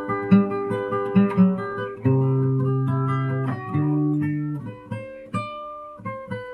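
Acoustic guitar played fingerstyle: picked notes over a ringing bass, several notes a second, easing off toward the end as the intro closes.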